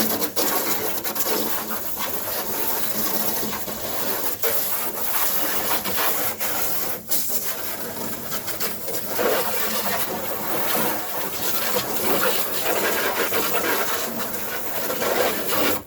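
Garden hose spraying water into a plastic kayak hull, a steady rushing hiss with scraping and rattling. It starts and stops abruptly.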